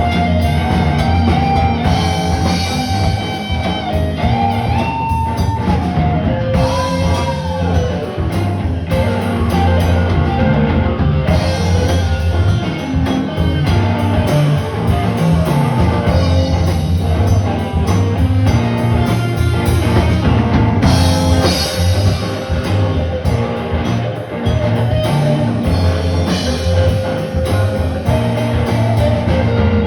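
Live band playing blues-rock with guitar, drum kit and bass. A guitar lead holds long notes with string bends about four to eight seconds in.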